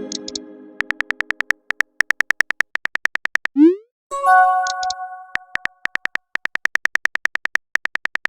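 Chat-app sound effects: runs of rapid virtual-keyboard typing clicks, a short rising pop of a message being sent about three and a half seconds in, and a ringing multi-note chime at the start and again about four seconds in.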